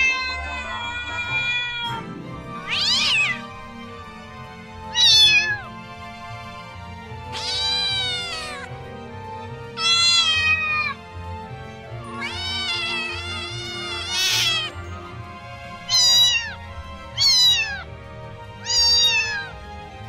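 Domestic cats and kittens meowing, a string of about nine separate meows, each rising and falling in pitch, some short and some drawn out, over a soft background music bed.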